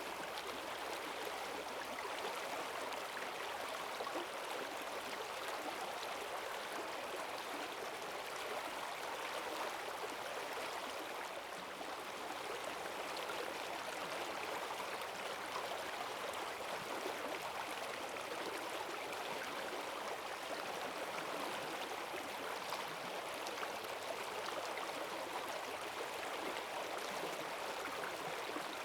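Forest stream swollen by heavy rain, water rushing and gurgling over rocks in a strong, steady current.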